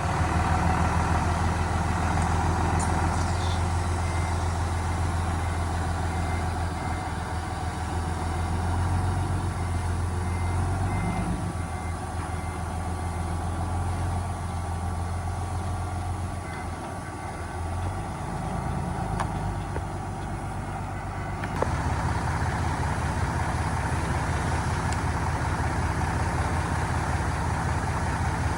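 Heavy diesel earthmoving machinery running, its low engine note shifting with load. A faint reversing beeper sounds in the first several seconds, and the engine sound changes abruptly a little over 20 seconds in.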